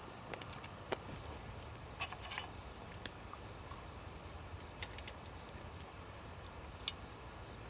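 Scattered short, sharp clicks and pops over a faint steady background, the loudest one near the end.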